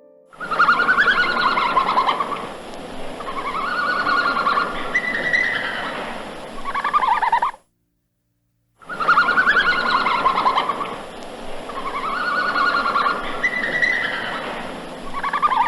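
Bird calls: a run of warbling, falling and rising calls, played twice over with about a second of silence between.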